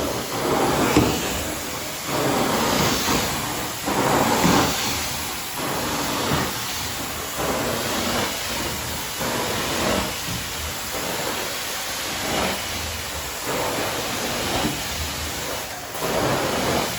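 Carpet cleaning machine running. Its rushing spray-and-suction noise swells and falls about once a second as it is worked back and forth across the carpet.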